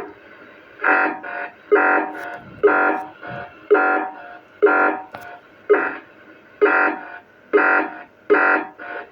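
CB radio receiver's speaker playing a buzzy, pulsing interference tone that repeats about once a second, each pulse followed by a shorter echo-like blip. The hiss cuts off with a click as it begins. The operator takes the signal for harmonics.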